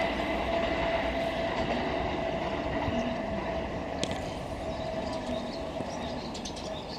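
Electric commuter train running away down the line, its rumble and steady whine slowly fading. Birds chirp near the end.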